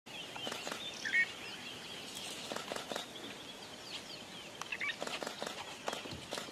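A flock of birds chirping and twittering with many short, overlapping calls, a louder call about a second in and another near five seconds, over scattered light clicks and taps.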